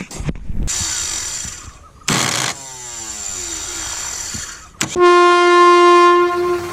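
A loud horn blast, one steady note held for about a second and a half near the end. Before it comes noisy mechanical sound and a tone that slides downward in pitch.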